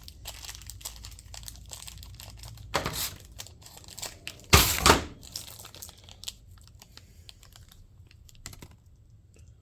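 Small hardware being handled out of its plastic packaging: rustling and crinkling with many light clicks of small parts. The loudest burst of rustling comes about halfway through, and the handling thins out to the odd click toward the end.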